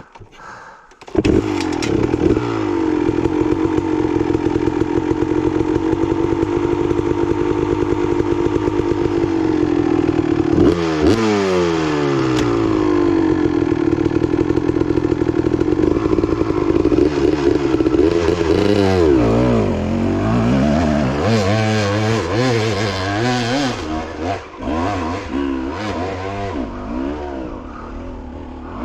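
Two-stroke dirt bike engine revving hard as the rider climbs a steep hill. It comes in loud about a second in and holds high, steady revs, with a sweep in pitch around eleven seconds in. In the second half the revs rise and fall in quick blips as the throttle is worked, and the engine grows fainter toward the end.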